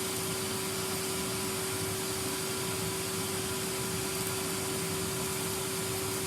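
Numatic Henry canister vacuum cleaner running steadily, its motor holding one constant hum under an even rush of air.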